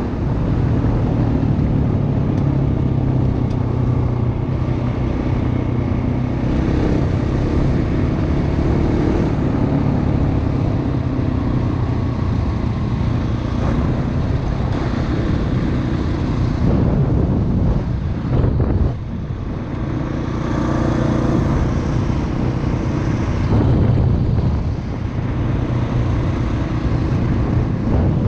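Dirt bike engine running under way on a dirt track, its note steady with small rises and falls as the throttle changes, and a brief drop off the throttle about two-thirds of the way through.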